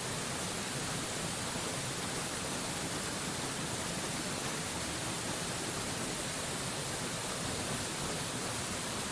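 Mountain waterfall rushing steadily: an even, unchanging hiss spread from deep to very high pitches, with no splashes or breaks standing out.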